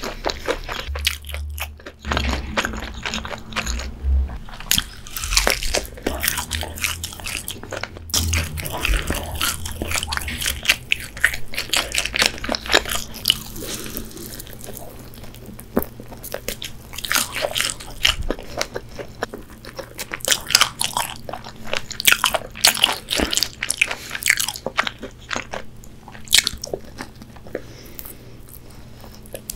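Chewing crispy fried chicken: crunches of the fried breading with wet mouth sounds, going on throughout.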